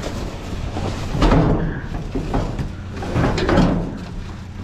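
An office chair being hauled up and over the side of a metal dumpster, scraping and knocking against it in a run of clanks and bangs, loudest about a second in and again a little past three seconds.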